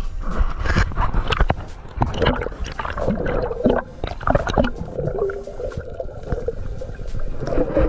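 Water gurgling and bubbling around an underwater camera, with irregular clicks and knocks and a muffled wavering tone.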